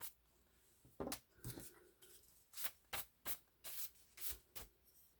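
Paper being handled on a desk: a string of short, light rustles and taps, about eight in all, with quiet gaps between them.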